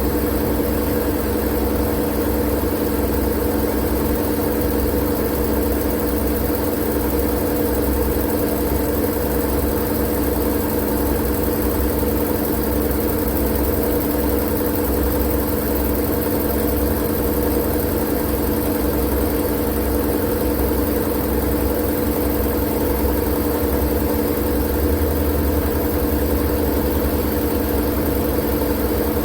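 Steady, unchanging white-noise drone: a machine-like hum with a low rumble and a few fixed steady tones under an even hiss.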